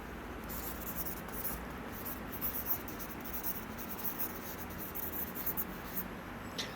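Pen scratching on paper in a run of quick writing strokes over a steady background hiss, with a brief ringing near the end.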